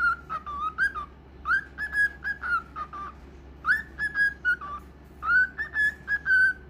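Cockatiel whistling its song: phrases of short whistled notes, several sliding up into a held tone, repeated in bursts with brief pauses between.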